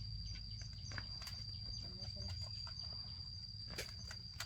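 Rural outdoor ambience: a steady high-pitched insect drone with small repeated chirps above it, a low rumble underneath, and a few scattered clicks.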